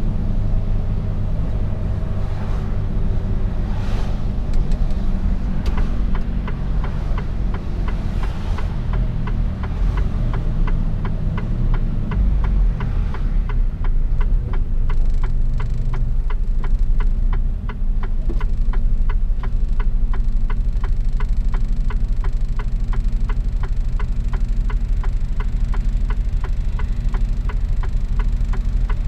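Mercedes-Benz Actros truck's diesel engine running with a steady low drone while driving. About halfway through, a quick, regular ticking joins it and keeps going.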